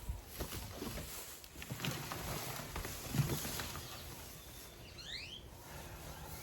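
Scattered light knocks and rustling, with a bird giving two quick rising chirps about five seconds in.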